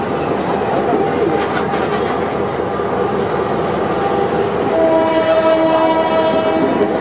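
Passenger train running along the track, with steady wheel and carriage noise heard from an open carriage door. Near the end the train's horn sounds one steady blast lasting about two seconds.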